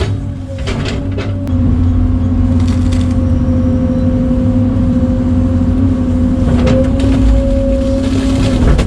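A machine's engine running steadily at a fixed speed, picking up to a louder level about a second and a half in, with a few short rattles and clanks over it.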